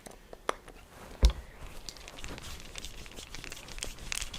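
Rustling and crinkling of skin and fabric rubbing together during a massage, growing a little busier toward the end. There are a few sharp clicks near the start and a single low thump, the loudest sound, a little over a second in.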